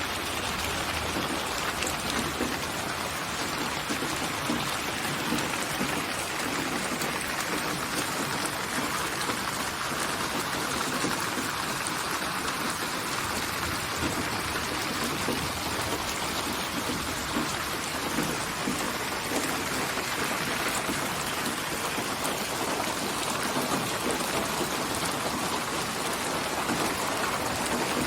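Steady rain falling, an even hiss of many drops on a surface, with no letup.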